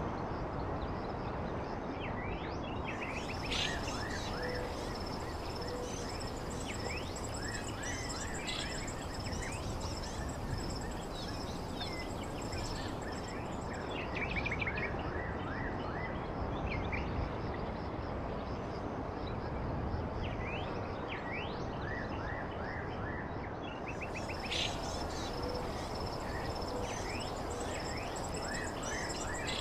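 Birds chirping in short, repeated calls over a steady background hiss. A thin, high steady tone fades in and out a few times.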